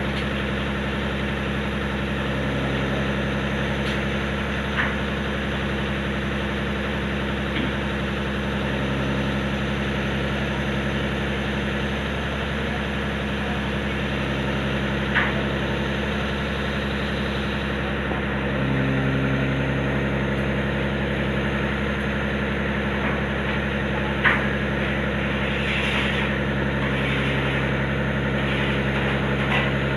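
Diesel engine of a concrete pump truck running steadily, with a slight step up in level about two-thirds of the way through and a few short, sharp knocks.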